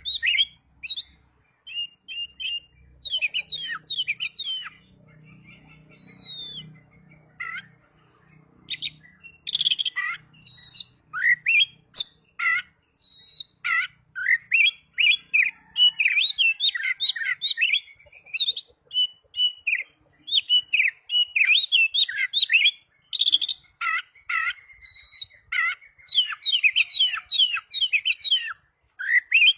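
Oriental magpie-robin (kacer) singing in full song: rapid, varied phrases of sharp chirps and whistled notes, going quiet for a few seconds shortly after it starts and then resuming densely.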